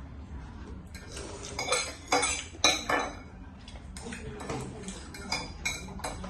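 Eating utensils clinking and scraping against a dish of noodles, a run of short clinks that is loudest about two seconds in.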